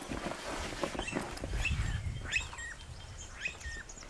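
Birds calling repeatedly, each call a short whistle that rises and then steps down, with a fast high trill joining near the end. Soft rustling of a canvas backpack being handled comes in the first second.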